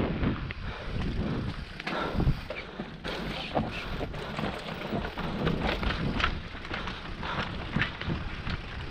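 Wind buffeting the microphone, with irregular knocks and rattles of a bike riding over a rough dirt trail.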